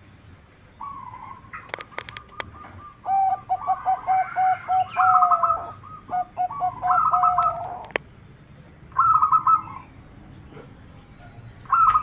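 Zebra dove (perkutut) cooing: rapid runs of short, evenly repeated notes in several bursts, with a few sharp clicks among them.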